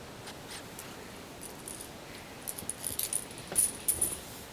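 Light metallic jingling: a run of small jangles and clinks with a thin high ring, beginning about a second and a half in and loudest from about two and a half to four seconds in.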